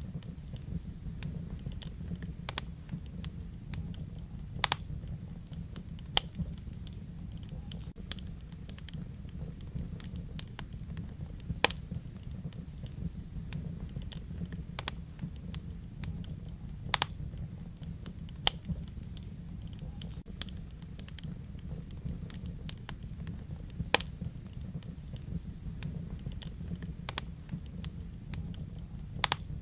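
Wood fire crackling in a fireplace: a steady low rumble of burning with irregular sharp pops and snaps, a dozen or so loud ones.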